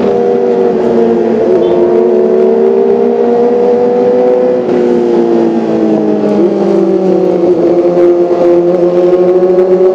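Kawasaki ZX25R's 249 cc inline-four engine running at high revs: a loud, steady, high-pitched engine note whose pitch dips slightly about halfway through and then holds.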